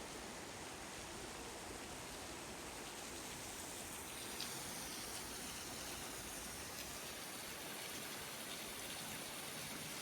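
Steady rush of water from a waterfall and its stream, with a faint click about four seconds in.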